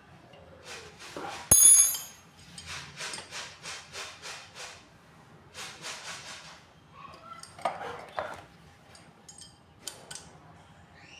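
Hand tools working on metal water-pump parts: a sharp metallic clank that rings briefly, then runs of rapid back-and-forth scraping strokes, about four or five a second, with a heavier scrape and a few small clicks later.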